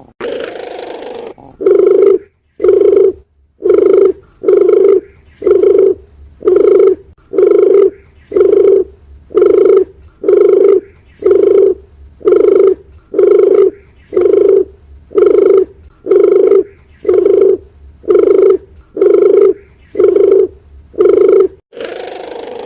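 Dove cooing: the same short, pitched coo repeated evenly a little over once a second, about twenty times, after a longer, rougher call at the start.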